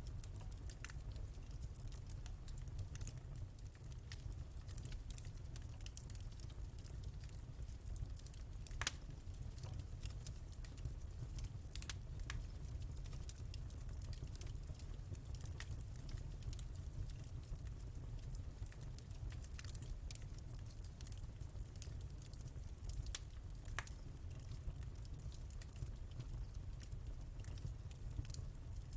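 Wood fire crackling in a fireplace: a dense run of small pops and snaps over a low, steady rumble, with a few sharper cracks scattered through.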